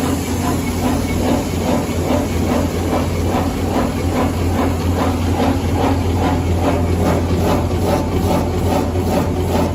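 An automatic wet-tissue packaging machine running, with a steady low hum under a fast, regular clatter of several strokes a second as it packs tissues one after another.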